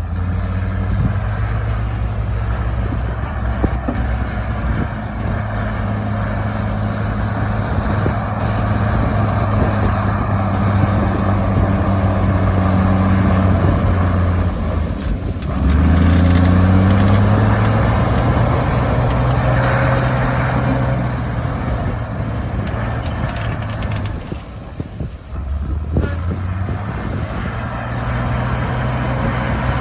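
Heavy diesel engine of earthmoving machinery running steadily, revving up sharply about halfway through and dipping briefly a little later.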